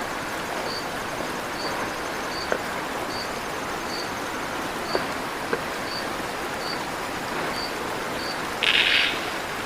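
River water flowing steadily, with a high chirp repeating about every two-thirds of a second and a short, louder buzzy call near the end.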